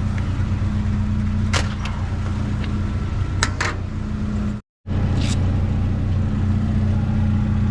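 Truck engine running steadily with a low hum, with a few sharp clicks over it and a brief dropout to silence about halfway through.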